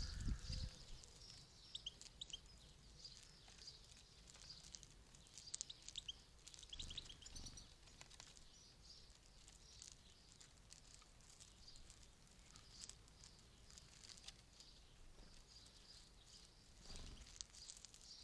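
Faint, scattered songbird chirps and short twittering calls, clustered about two seconds in and again around six to seven seconds, with a few soft low bumps.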